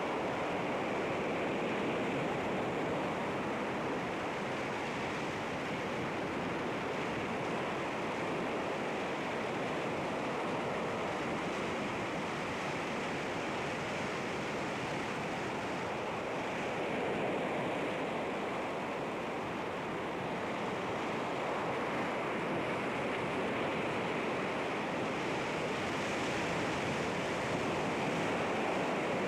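Sea waves washing against rocks in a steady surf, rising and falling gently.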